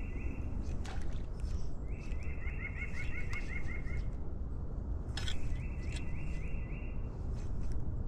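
A small bird singing in runs of short, rising whistled notes, about five a second, three times, over a steady low rush.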